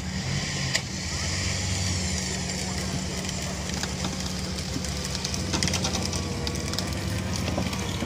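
A vehicle engine running steadily with a low even hum, a faint steady tone riding above it in the second half.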